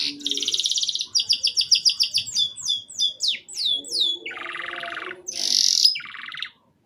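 Domestic canary singing a varied song. Fast high trills and quickly repeated notes give way to a series of falling whistled notes about halfway through, then lower rolling trills and a buzzy high note. It stops just before the end.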